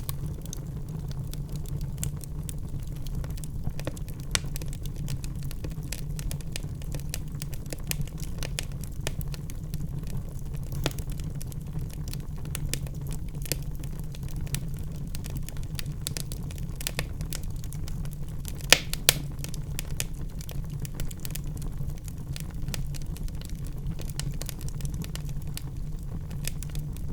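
Wood fire burning in a fireplace: a steady low rumble of the flames with frequent sharp crackles and snaps from the logs, and two louder pops close together about two-thirds of the way through.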